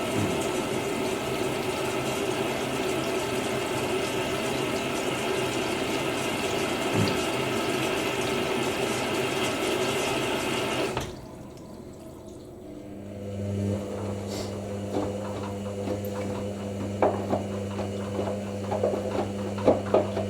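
Hoover NeXtra washing machine filling with cold water, a steady rush that cuts off suddenly about halfway through. A couple of seconds later the drum motor starts with a steady low hum. Knocks follow near the end as a limescale tablet tumbles in the drum.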